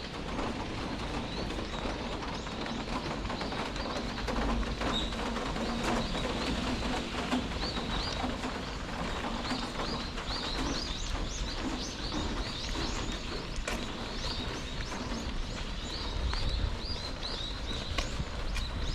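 Small birds chirping in quick, repeated short notes, sparse at first and then many together in the second half, over a steady background hiss.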